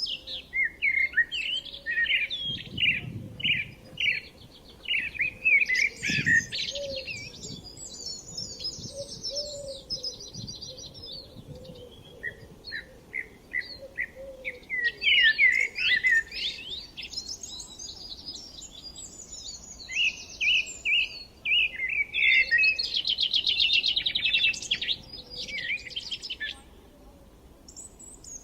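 Several songbirds singing: runs of quick chirping notes and fast buzzy trills in bursts, with short lulls between phrases.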